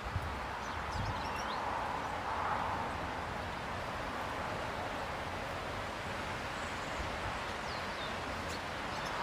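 Faint, short chirps of small birds every so often over a steady outdoor background hiss, with a couple of soft low thumps near the start.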